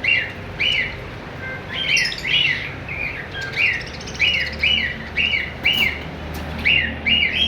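Small caged parrots chirping: a string of about fifteen short, sharp chirps, each dropping in pitch, coming irregularly and overlapping in places.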